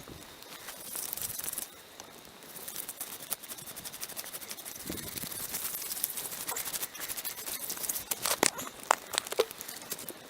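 Irregular scratching and scraping with scattered sharp clicks: a blade scraping the charred wood out of a log bowl being hollowed by burning.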